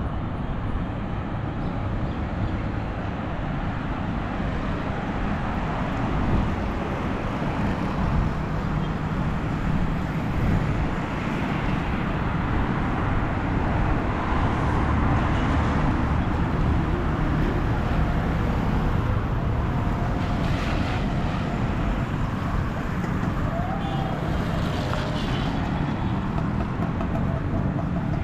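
Steady city road traffic: cars and other engines running and passing in a continuous low rumble.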